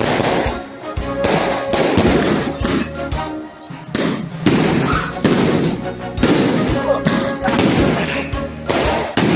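New Year fireworks going off in a series of sharp bangs, each with a crackling tail, with music playing over them.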